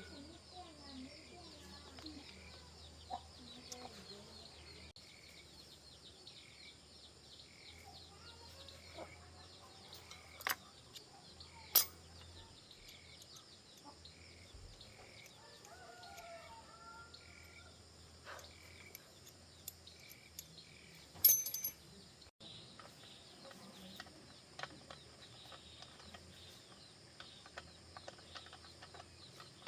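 Chickens calling among other birds, with one bird note repeating about once a second for most of the stretch. A few sharp clicks or taps cut through, the loudest a short cluster about two-thirds of the way in.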